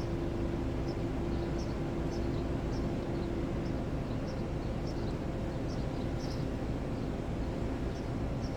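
Steady outdoor background rumble with a faint hum that fades away over the first few seconds, and small high chirps now and then.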